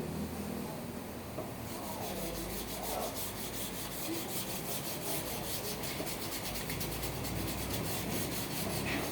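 Repeated scrubbing strokes on engine metal, steady and close together, while the valve rocker-arm area is being cleaned.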